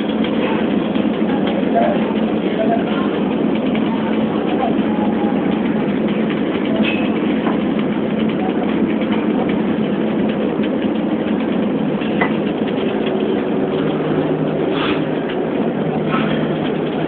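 Billet reheating furnace burners firing: a steady, loud rushing noise with a constant low hum underneath, unchanging throughout.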